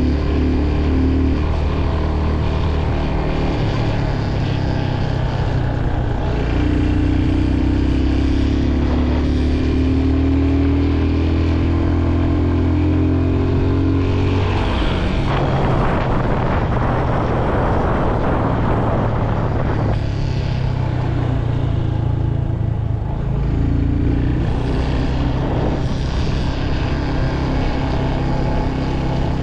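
Motorcycle engine running under way, its pitch climbing slowly for several seconds as it pulls in gear. About halfway through, a rushing noise covers it for a few seconds, then the steady engine note comes back.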